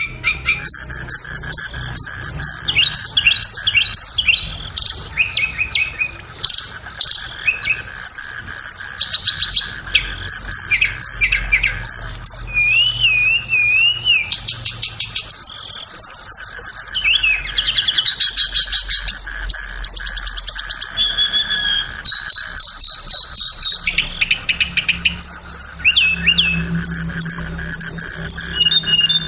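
Flowerpecker song: a fast, varied run of high, thin chirps, rising and falling whistled notes, trills and rapid ticking series, following one another with hardly a pause.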